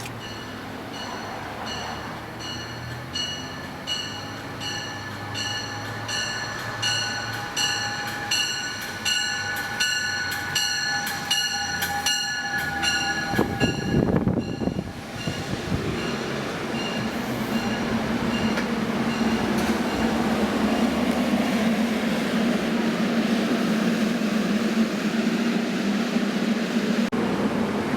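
SEPTA push-pull commuter train coming in on the near track, a bell ringing about twice a second over its approach. About 14 seconds in it reaches the microphone with a sudden rush of noise. It then runs close by with a loud, steady rumble and a low hum.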